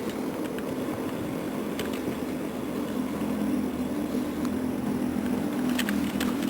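Steady low vehicle and road rumble heard while riding an electric bike through city streets, with a few short clicks near the end.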